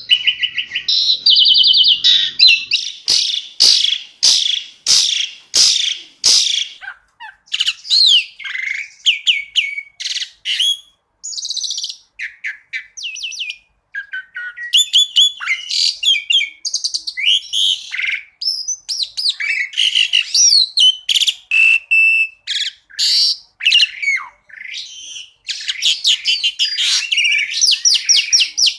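Asian pied starling (jalak suren) singing a varied song of whistles, rapid chirps and gliding notes, with a run of loud, sharp notes a few seconds in and fast chattering near the end.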